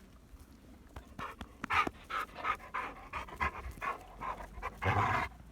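Dog panting in quick breaths, about three a second, starting about a second in.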